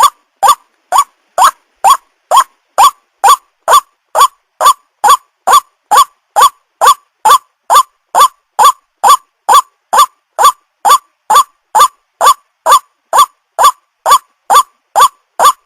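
White-breasted waterhen (ruak-ruak) calling: one short, upward-sweeping note repeated very evenly about twice a second, every note alike.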